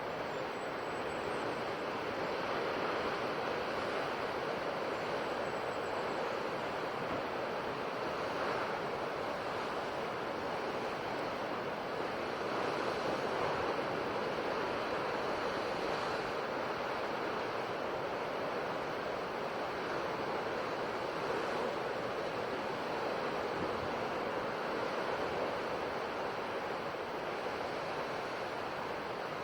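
Sea waves washing on a shore, a steady rushing surf that swells gently and eases without pause.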